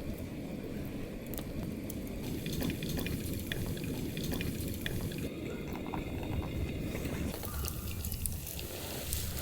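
Food simmering in a cooking pot, liquid bubbling with many small pops and clicks.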